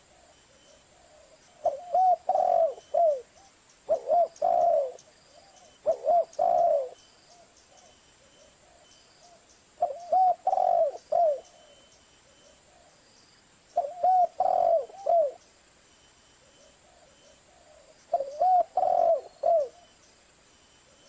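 Spotted dove (tekukur) cooing: six phrases of a few soft, arched coos each, about a second long, repeated every two to four seconds.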